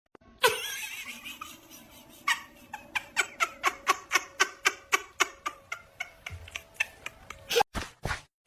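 A cat making a rapid run of short repeated calls, about five a second, each dropping in pitch. It goes on for several seconds, with a couple of sharp clicks near the end.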